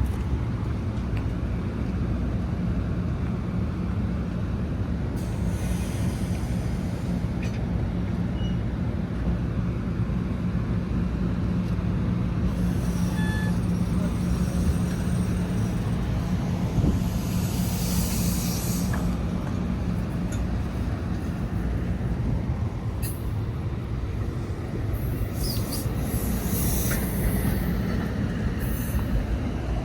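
NJ Transit commuter train running at a station: a steady rumble with a hum that fades out about two-thirds of the way through, and short hisses of air in places.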